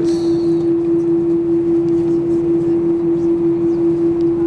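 Airbus A319 cabin noise with the jet engines running at idle: a steady drone with one constant humming tone over it, unchanging in level.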